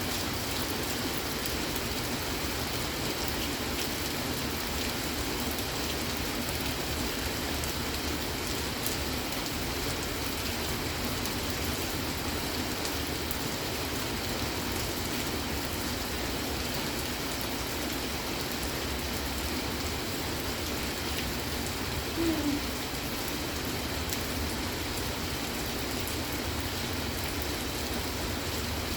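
Steady rain falling on surfaces, an even unbroken hiss. One brief low-pitched sound rises over it about two-thirds of the way through.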